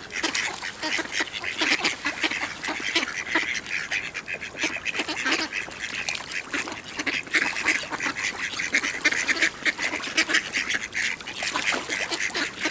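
A flock of ducks quacking and chattering, many quick overlapping calls, as the hungry birds crowd together to be fed.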